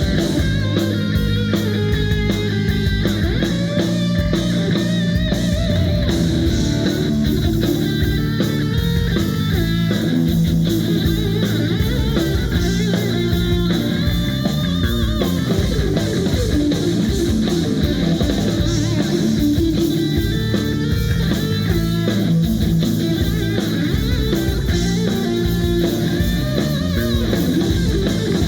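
Live rock band playing: electric guitar lines over bass and drum kit, loud and continuous.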